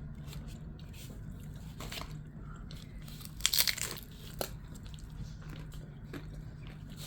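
Close-up eating sounds: chewing a burrito with crunchy kettle chips inside, with crisp crackles and one loud crunching bite about three and a half seconds in.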